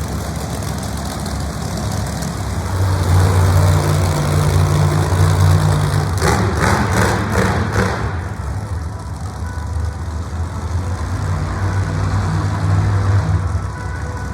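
Big monster truck engine running loud and low, swelling from about three seconds in and again near the end. A short spell of noisy crashing or rumble comes about six seconds in.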